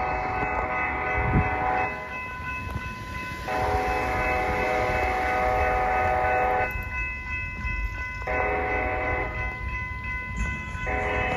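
Diesel locomotive's multi-note air horn sounding the grade-crossing signal, long, long, short, long, with a low rumble underneath.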